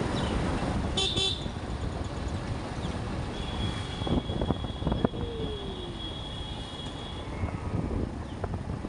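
Road noise on a motorbike ride: a steady low rumble of engine and wind, with a short vehicle horn toot about a second in. From about three and a half to seven seconds a long, high, steady tone sounds.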